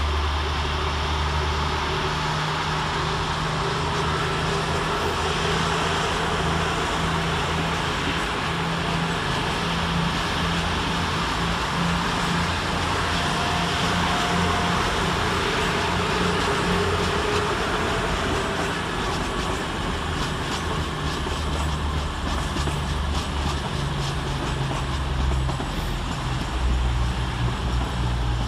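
Two coupled Class 222 Meridian diesel multiple units pulling out, their underfloor diesel engines running with a steady low drone.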